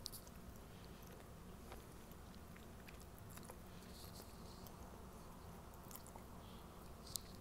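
Faint chewing of a soft chicken-salad sandwich on white bread: scattered small mouth clicks over a low steady hum.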